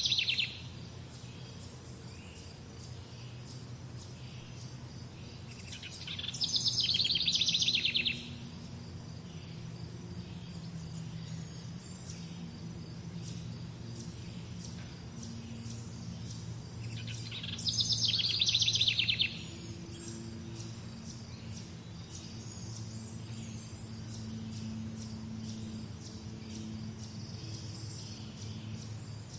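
Birdsong: a bird sings loud, rapid trilled phrases of about two seconds each, three times (at the start, about six seconds in and about eighteen seconds in), over fainter chirping from other birds and a steady low hum.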